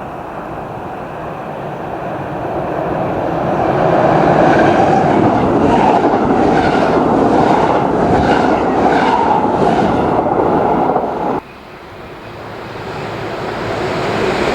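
A train passing through a station: its noise builds over the first few seconds to a loud, steady run, with wheels clattering rhythmically over the rail joints. About eleven seconds in the sound cuts off suddenly, and another train's noise begins to build.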